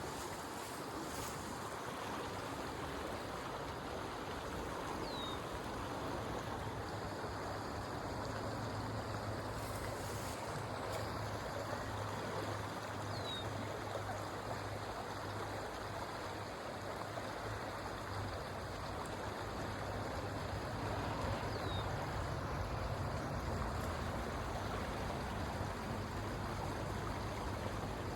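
Creek water running, a steady rushing sound, with a faint short high chirp three times, about eight seconds apart.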